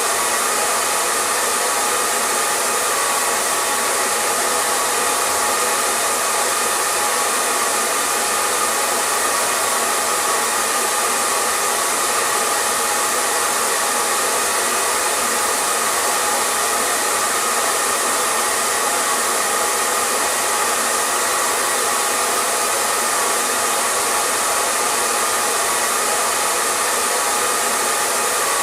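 Hair dryer blowing continuously at a steady speed, a constant airy whoosh with a faint hum from its fan motor.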